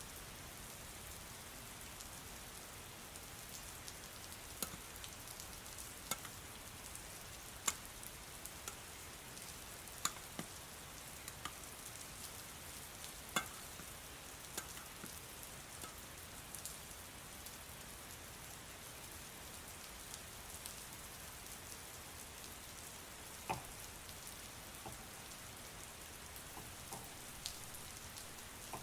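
Soft, steady rain hiss with scattered sharper single drops ticking here and there.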